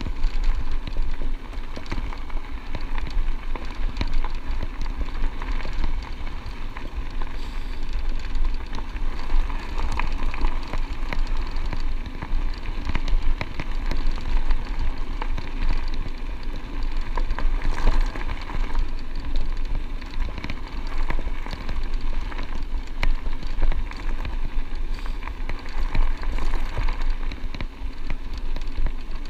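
Electric bike's tyres rolling and crunching over a chunky gravel track, a steady crackle of small stones, with a low rumble of wind on the microphone underneath.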